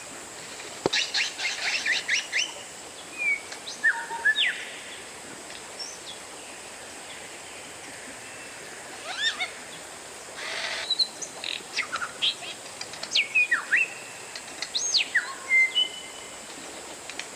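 Oriental magpie-robin singing a varied song of loud whistled notes, quick rising and falling glides and rapid chirps, with a pause of a few seconds in the middle and a short harsh hiss-like note about ten seconds in.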